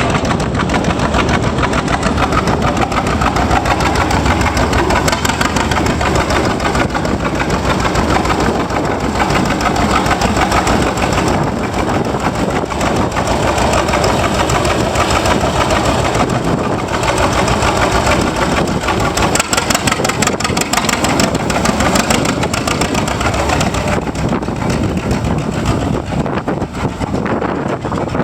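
1944 John Deere D tractor's two-cylinder engine running steadily, a continuous rhythm of exhaust beats.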